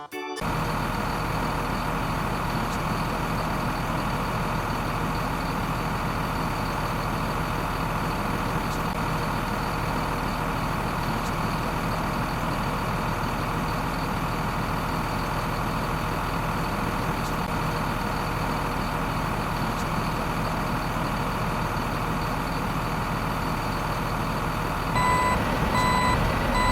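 A heavy vehicle's engine running steadily, like a truck or tractor. Near the end a reversing beeper sounds three short, evenly spaced beeps.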